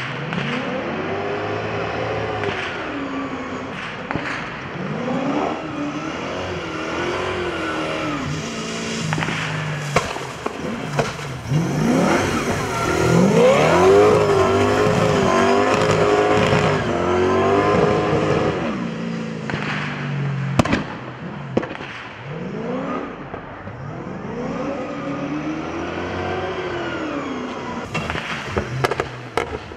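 Race-prepared drift car's engine revving up and falling back again and again as it slides sideways around the wet track, loudest in the middle as the car comes close. A few sharp pops are scattered through it.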